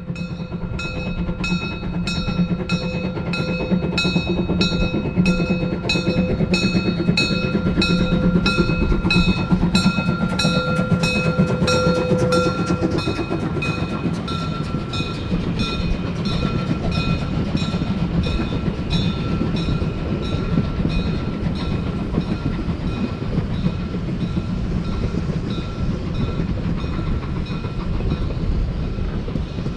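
Steam locomotive 99 1741-0 working a narrow-gauge train, its exhaust beating at about two per second, with rail and running noise underneath. Steady high tones ring over the beats for about the first half and then fade.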